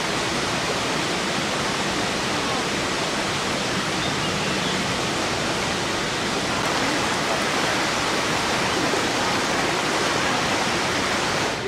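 Dzhuryn waterfall: a steady, unbroken rush of falling water.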